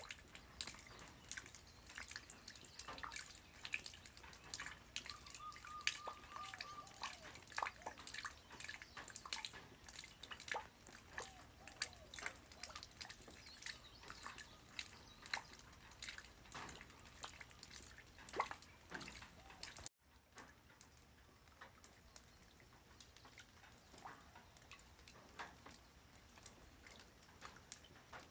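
Light rain falling on the ground: scattered drops landing as irregular ticks over a faint hiss. About twenty seconds in, the sound cuts out for an instant, and after that the drops are sparser and quieter.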